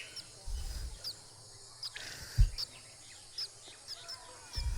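Outdoor birdsong of short, high chirps repeated about once or twice a second, broken by three low thumps, the sharpest and loudest just past the middle.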